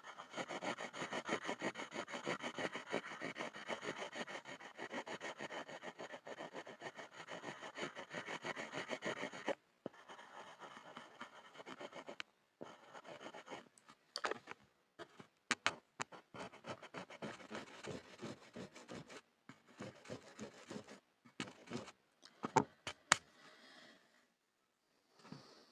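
Pencil scribbling on a wooden board: fast, dense scratching strokes for about the first nine seconds, then lighter, broken strokes with short pauses and a few sharp clicks.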